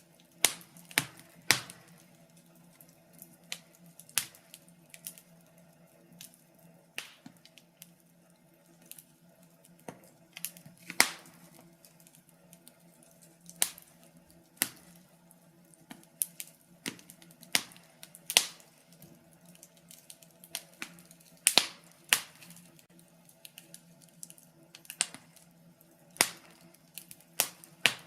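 Wood fire crackling in a fireplace: irregular sharp pops and snaps from the burning logs, some louder than others, over a faint low hum.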